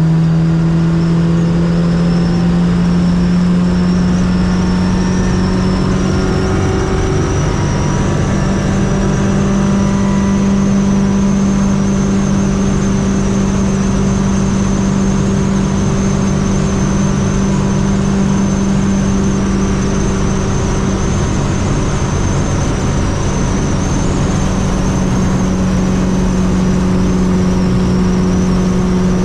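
Fiat 600 with a swapped-in 1.6-litre engine running at motorway cruise. The engine note climbs a little over the first several seconds, then holds steady, with a faint high whine over it.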